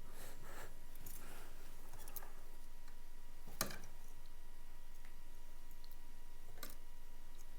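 Scattered faint clicks and taps, with a sharp click about three and a half seconds in and another near the end, over a steady faint electrical hum.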